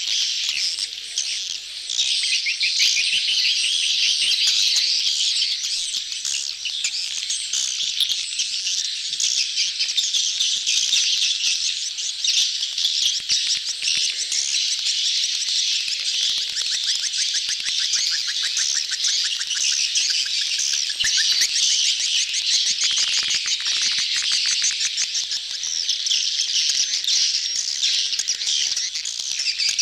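A crowded colony of swiftlets giving courtship calls, many birds chirping and twittering at once in a dense, continuous high-pitched chatter.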